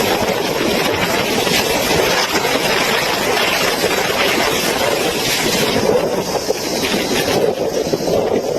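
Storm wind and heavy rain: a steady, loud rushing noise with no let-up.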